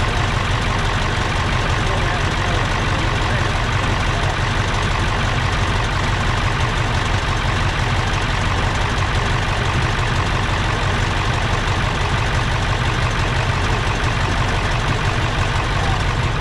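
Massey Ferguson 2805 tractor's V8 diesel engine running steadily in neutral, a low, even idle, on its first run after sitting for over two years.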